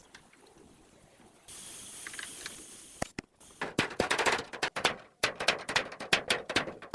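A short hiss, then a fast, irregular run of sharp knocks or clatter starting about halfway through.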